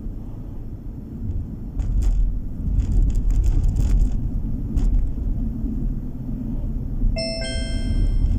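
Car driving on the road, a steady low rumble of engine and tyre noise that grows louder about two seconds in. Near the end comes a short electronic chime of several steady tones lasting about a second.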